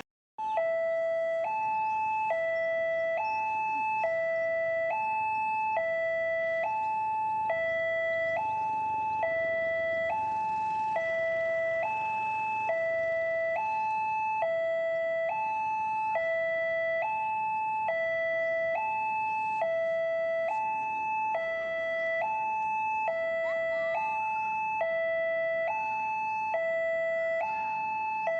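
Electronic level-crossing warning alarm sounding, alternating between a low and a high tone, each held a little under a second, repeating evenly: the crossing is signalling an approaching train.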